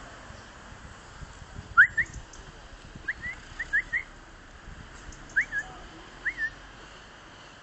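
A parrot giving short, rising, whistle-like chirps in a few quick groups of two or three.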